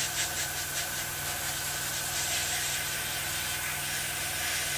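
Airbrush hissing steadily as it sprays paint at a low air pressure of 8 to 10 psi, with a quick flutter in the hiss during the first second. A steady low hum runs underneath.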